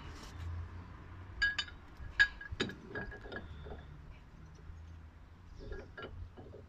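Metal parts of a wheel bearing press tool kit clinking and knocking together as they are handled and fitted. There are several sharp clinks with a brief ring, most between about one and a half and three and a half seconds in, and a couple more near the end.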